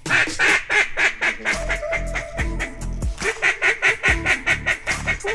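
Rapid runs of mallard-style quacking, short repeated notes coming about six a second in the busiest stretch, with background music underneath.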